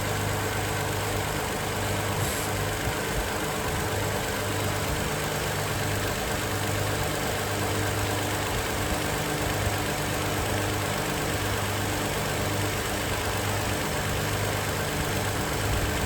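2020 Toyota Sienna's 3.5-litre V6 idling steadily, left running to purge trapped air from the cooling system.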